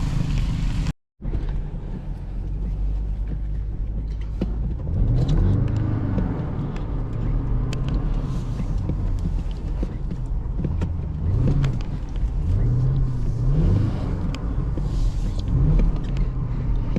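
BMW X5 50i's twin-turbo V8 running, then revving up and dropping back again and again after a short gap about a second in, as the driver tries to get the car sliding on snow.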